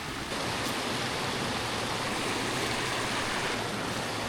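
River water rushing steadily, an even rushing noise.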